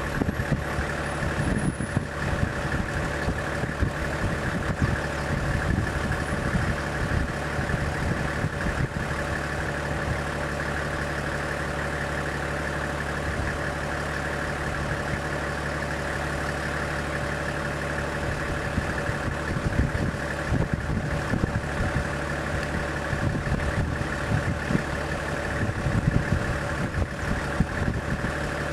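A vehicle engine idling steadily, with an even low hum, and a few soft low bumps along the way.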